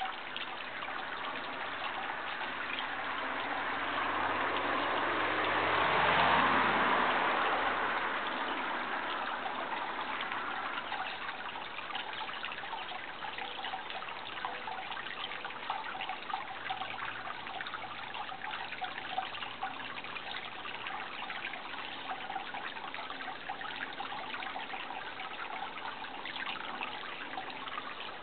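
Running water trickling steadily, like a small stream. About four to eight seconds in, a louder swell with a low hum rises and fades away.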